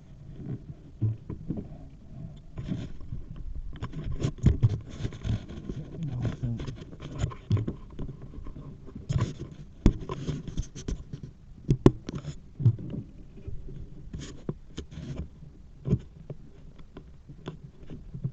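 E-bike being ridden over rough ground: irregular knocks and rattles over a low rumble.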